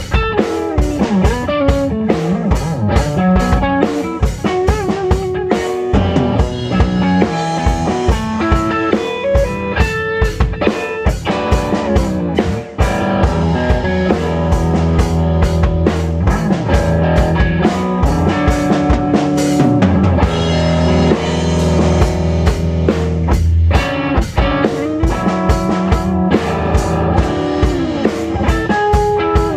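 A rock band jamming, recorded raw: a drum kit keeps a steady beat under electric guitar and low sustained bass notes.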